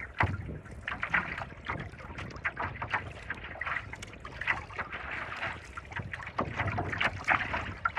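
Choppy seawater splashing and slapping against a paddleboard in a steady, irregular patter, with wind rumbling on the microphone.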